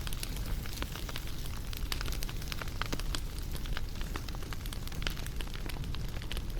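Wood fire crackling: frequent, irregular sharp pops and snaps over a steady low rumble.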